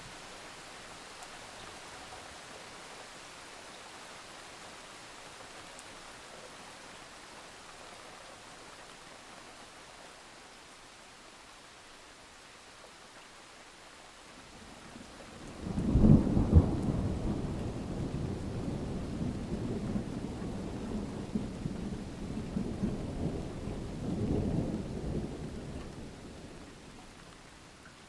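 Steady rain falling. About halfway through, a clap of thunder breaks in sharply and rolls as a low rumble for around ten seconds, swelling once more before it fades away.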